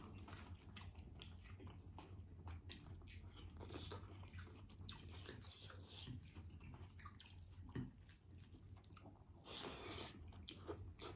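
Quiet chewing and mouth sounds of people eating fried fish and rice: soft irregular clicks and smacks, with a slightly louder smack near the end, over a faint steady low hum.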